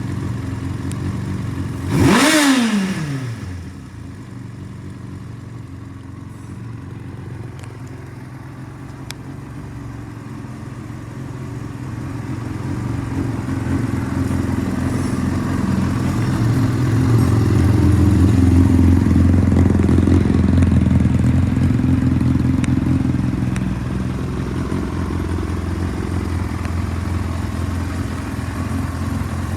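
Yamaha YZF-R1's inline-four engine given one quick throttle blip about two seconds in, then idling steadily; the idle grows louder through the middle and eases back a little near the end.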